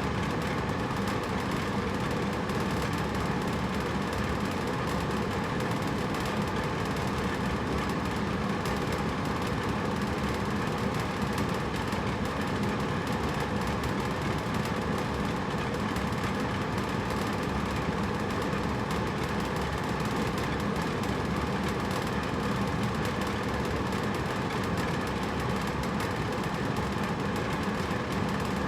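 Hotel room air conditioner running steadily: a constant whoosh of air from the fan with a low hum.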